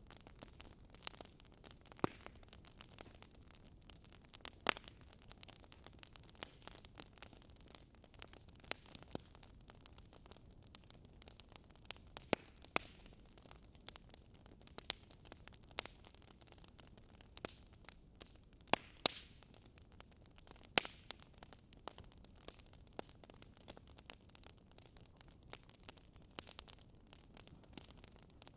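Fire crackling: irregular sharp pops and snaps, a few louder than the rest, over a steady soft hiss.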